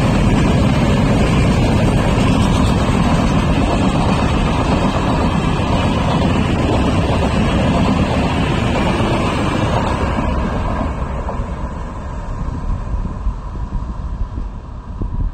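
Express train passing close by: a loud, steady rumble of wheels and coaches that fades away from about ten seconds in. Wind buffets the microphone.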